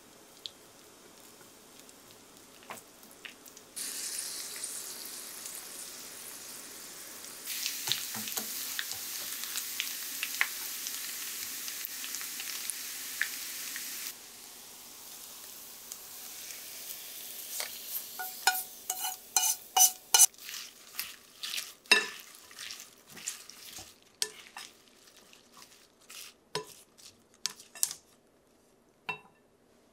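Chirimen jako (dried baby sardines) sizzling in sesame oil in a small wok, stirred with chopsticks until crisp; the sizzle starts a few seconds in, grows louder, and stops abruptly about halfway through. In the second half, a quick run of sharp clicks and taps, some with a short ring, then sparser taps as chopsticks toss a salad in a glass bowl.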